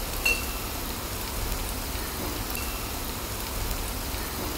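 Chopped ginger and garlic with a coarsely ground coriander, cumin and pepper masala sizzling steadily in hot oil in a frying pan.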